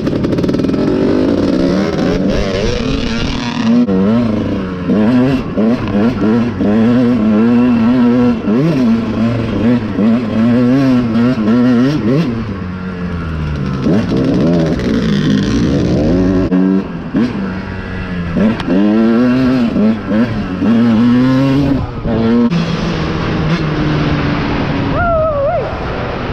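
Dirt bike engine being ridden hard, its revs rising and falling over and over as the throttle is worked and gears change.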